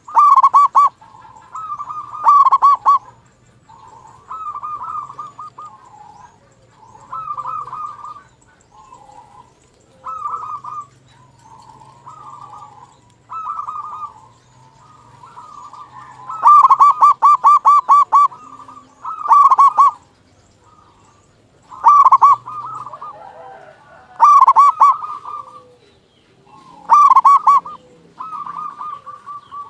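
Zebra dove (perkutut) cooing, its song phrases of quick, stuttering coo notes repeated every second or two. Some phrases are loud, a pair near the start and a run of them from about 16 seconds on, with softer phrases in between.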